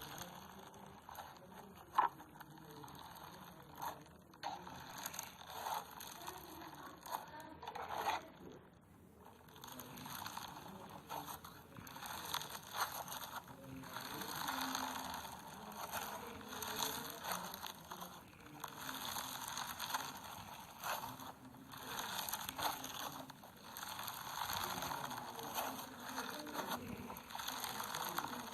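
Foam-bead slime (floam) squished and stretched by hand, crackling and popping with many small clicks, with one sharper click about two seconds in.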